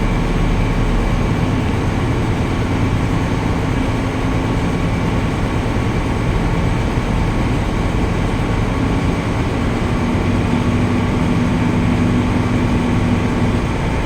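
A large ship's engine running, a steady heavy drone with held hum tones; a higher hum joins about two thirds of the way in.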